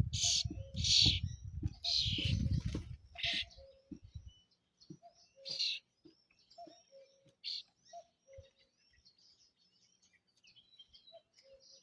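Common starling singing: a run of loud, noisy bursts in the first few seconds, then quieter scattered chirps, whistles and short low notes. A low rumble sits under the opening seconds and stops about four seconds in.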